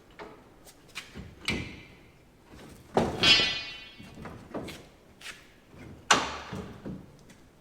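Heavy metal clanks and knocks as a replacement corn head gearbox is lifted and set into place on the row unit. The two loudest strikes, about three seconds in and about six seconds in, ring briefly.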